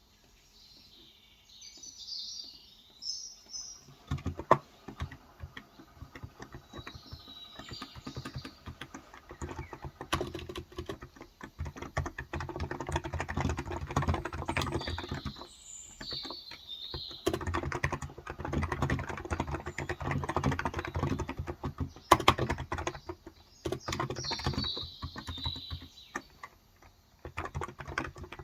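Typing on a Cox Endeavor electro-capacitive tenkeyless keyboard with 35 g switches, in quick runs of keystrokes with brief pauses, starting a few seconds in. Birds chirp in short phrases about four times over it.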